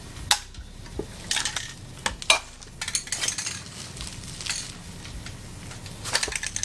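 Light metal clicks and clinks, scattered and irregular with a busier rattle near the end: a rivet being set by hand to lock a rolled perforated aluminium sheet together.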